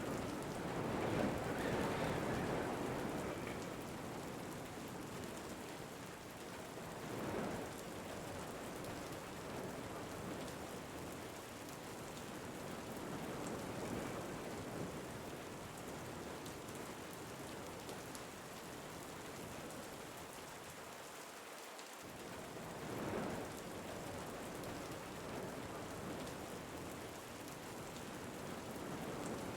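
Steady rain with wind, a continuous hiss that swells louder a few times: about two seconds in, around seven seconds and around twenty-three seconds.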